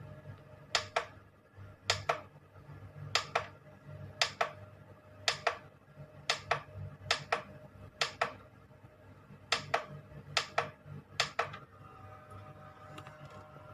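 Sharp clicks, mostly in close pairs, repeating about once a second over a steady low hum.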